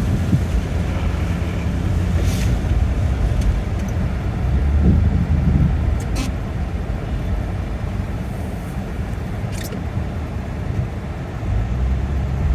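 A 2003 Toyota Avalon driving on Bridgestone Blizzak WS90 winter tyres over a snowy road: a steady low rumble of tyres and engine. Three brief sharp sounds come at even spacing, about every three and a half seconds.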